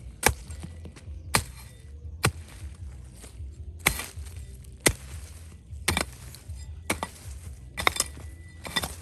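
Repeated sharp strikes of a hand tool on hard material, about one a second, with some clinking, over a steady low hum.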